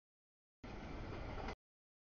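Noise of a freight train passing, an even rushing rumble about a second long, starting and stopping abruptly between stretches of dead silence where the audio feed drops out.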